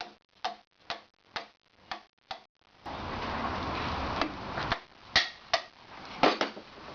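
Light, evenly spaced metal taps, about two a second, then after a short pause several louder knocks, as parts of an antique blacksmith's leg vise are worked into place during reassembly.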